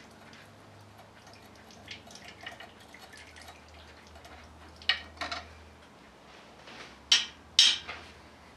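Engine coolant dripping and trickling out of the Cummins diesel's block, with several sharp louder drips or splashes about five seconds in and twice more near the end. The coolant in the oil side is the sign of a failed head gasket.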